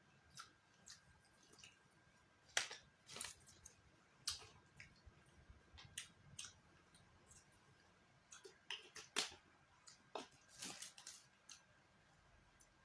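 Quiet eating sounds: irregular soft clicks and crunches of chewing food, with a cluster about a third of the way in and another past the middle.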